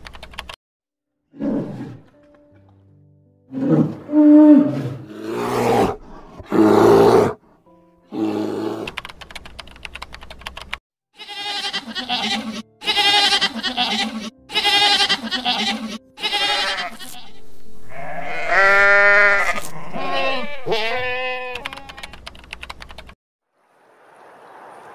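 A bear growling in several loud, short bursts, followed by goats bleating over and over with a quavering, wavering voice, the longest bleats coming late on.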